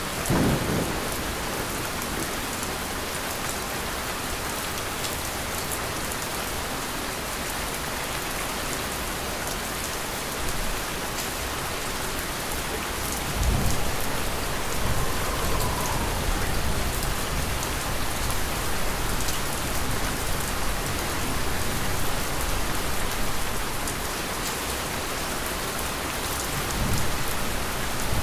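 Steady rain falling, with low rolls of thunder: a brief one at the start, a longer rumble from about halfway through, and another near the end.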